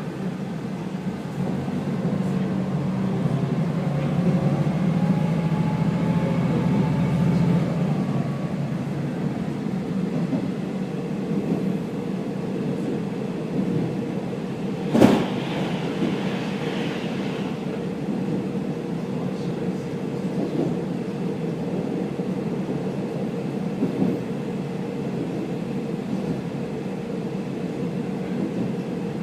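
Kaze-kko KiHa 48 diesel railcar heard from inside while running: a steady rumble of the diesel engine and wheels on the rails, louder with a faint rising engine note over the first several seconds. A single sharp knock about halfway through, and a smaller one later.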